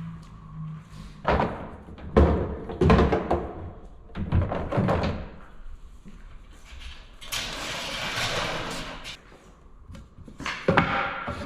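Pieces of cut 2x4 lumber knocking and thumping as they are handled and set down: a run of sharp knocks, a noisy stretch of about two seconds in the middle, then more knocks near the end.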